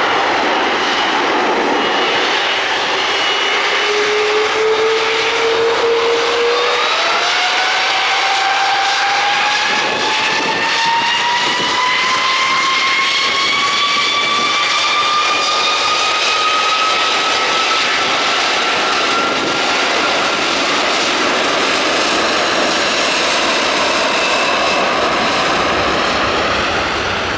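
Airbus A330-243 jet airliner's Rolls-Royce Trent 700 engines running at high power for take-off: a loud, steady jet noise with a whine that climbs steadily in pitch for most of the time as the engines spool up.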